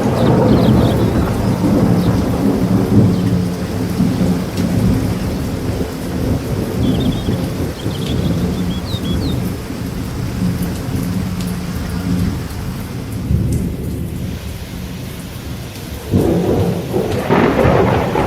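Continuous rushing water noise with a deep, rolling rumble that swells near the end, and a few faint high chirps about halfway through.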